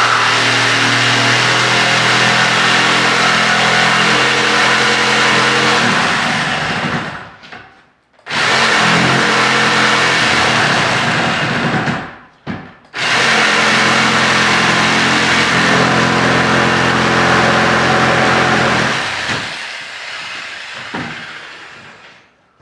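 Electric jigsaw with a long blade cutting wood, running loudly and steadily in three long runs with two brief stops between them, then dying away near the end.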